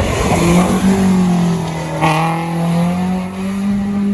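Rally car engine running hard, its note rising slowly as the car accelerates, with a brief sharp crack about halfway through.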